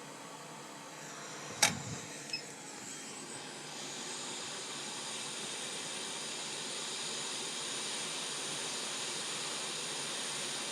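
Hot air rework station blowing a steady hiss onto a laptop motherboard, heating the area to reflow the solder. The hiss builds up a little about a second in and again a few seconds in, with a sharp click about a second and a half in.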